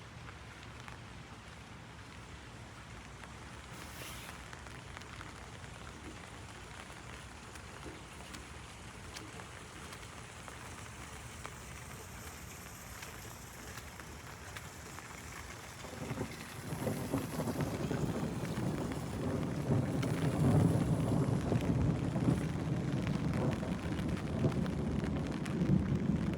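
Steady rain falling and pattering on an umbrella. About two-thirds of the way in, a low rumble of thunder swells up and grows louder toward the end.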